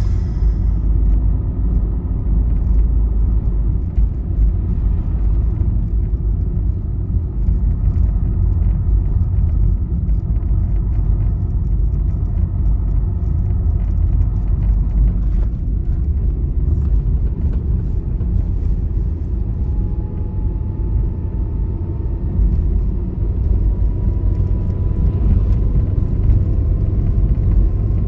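Steady low road rumble of a vehicle travelling on a highway. From about two-thirds of the way in, a faint whine slowly rises in pitch.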